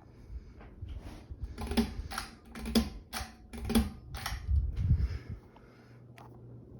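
A run of sharp clicks and low knocks, roughly two a second, dying out about six seconds in, over a faint steady hum.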